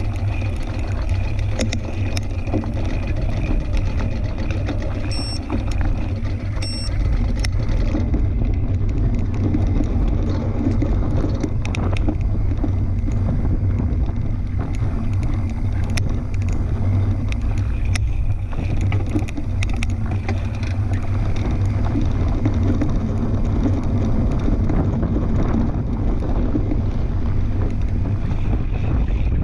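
Steady low rumble of wind buffeting the microphone and knobby tyres rolling as a fat-tire tandem bike rides a dirt trail, with scattered short clicks and rattles.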